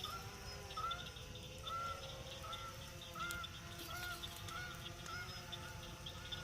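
A flock of geese honking as they fly in, short repeated calls about two a second. A steady chorus of frogs trills underneath.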